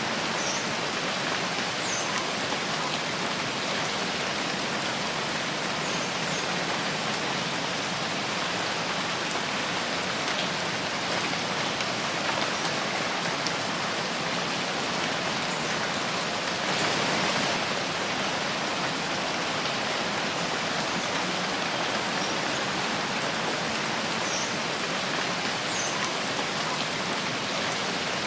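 Steady rain falling in a forest, an even hiss of countless drops that swells briefly about two-thirds of the way through. A few faint, short, high chirps sound over it.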